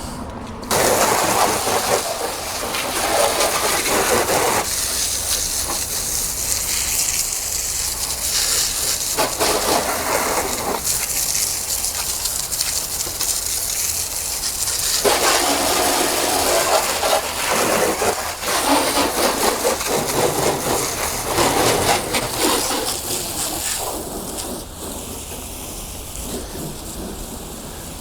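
Water spraying hard onto a car's bodywork, a loud hiss that starts abruptly about a second in and shifts in tone as the jet moves over the panels. It eases to a softer spray near the end.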